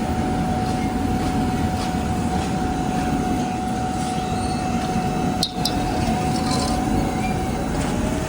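Heavy road-paving machinery running steadily: diesel engines rumbling, with a constant high whine over them.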